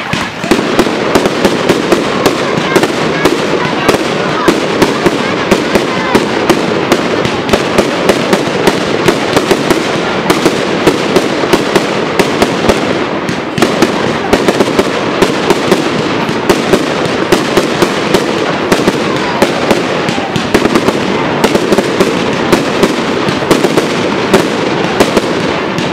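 Aerial fireworks display: a continuous barrage of sharp bangs from bursting shells, several a second, with only a brief lull about halfway through.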